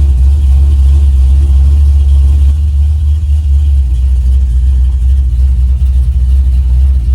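Chevrolet C-10 truck engine on Holley Terminator X throttle-body fuel injection running steadily at low speed with a deep, even rumble, shortly after a cold start while its air-fuel mixture is still being settled.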